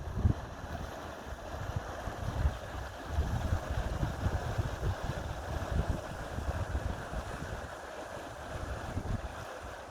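Steady rush of flowing river or stream water, with gusts of wind buffeting the microphone that ease off near the end.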